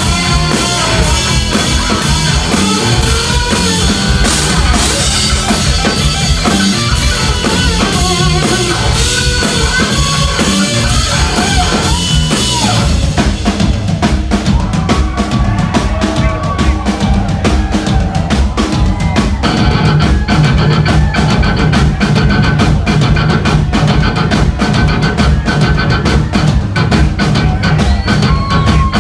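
Live instrumental hard rock and metal from a band of electric guitar, bass and drum kit, playing loudly throughout. About halfway the cymbal wash drops away, leaving fast, dense drum hits under the guitar.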